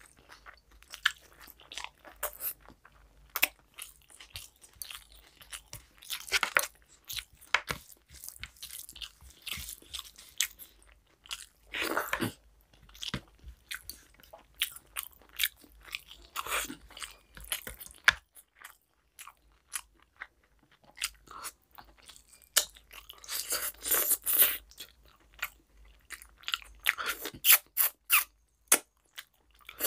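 Close-miked chewing and mouth sounds of a person eating rice and mutton curry by hand: irregular short clicks and smacks, with louder clusters now and then.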